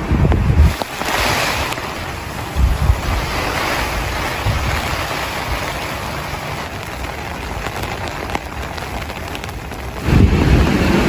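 Heavy rain falling steadily, with wind buffeting the microphone in low rumbling gusts in the first second and again near the end.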